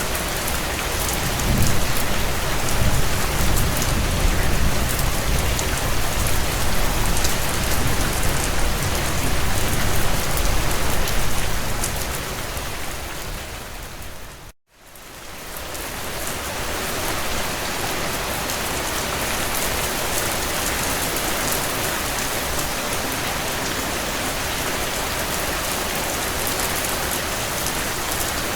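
Steady heavy rain, with a low rumble underneath through the first half. About halfway through, the sound fades out to a brief moment of silence and fades back in to steady rain.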